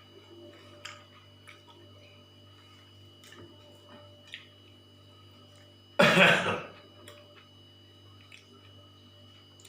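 A person coughs once, loudly and sharply, about six seconds in. Before it there are faint small clicks of eating over a steady hum.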